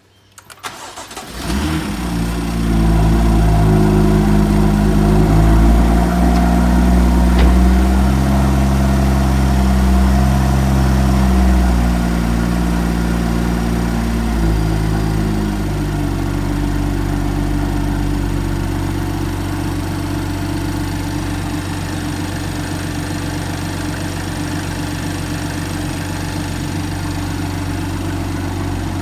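BMW M2's N55 turbocharged straight-six cranking and catching about a second in, then idling high with its speed stepping up and down before settling to a lower, steady idle about halfway through. This is the first start after fitting the new BMC air filter.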